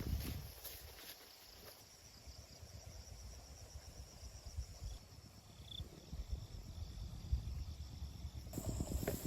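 Faint insects (crickets) chirping over a low, uneven rumble. Near the end, a small engine starts up and runs with a steady, even pulse.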